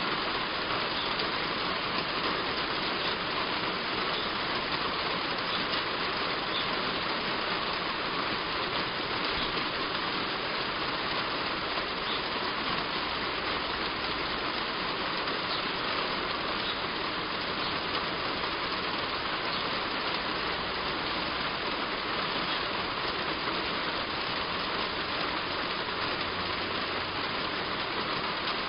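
Heavy rain falling steadily on a roof: an even, unbroken hiss of drops, with the odd faint individual drip ticking through.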